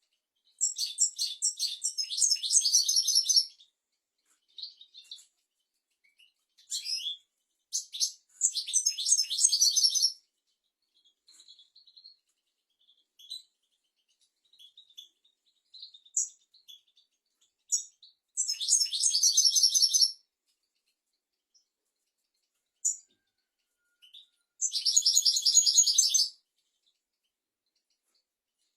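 European goldfinch singing: rapid, high twittering song phrases in five bursts of one to three seconds, with short single call notes in the gaps between them.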